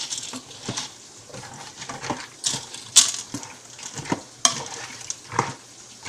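Spoon stirring frozen chicken chunks, pasta and sauce in a pressure cooker's inner pot: irregular scrapes and clinks of the spoon against the pot, the loudest about three seconds in.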